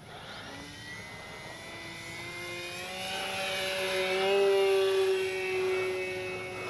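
Electric motor and propeller of an E-flite Sportix RC plane in flight, a steady whine that climbs a little in pitch and grows louder to a peak about four seconds in as the plane is pulled up for a tail slide, then starts to fall in pitch at the very end as the power comes off.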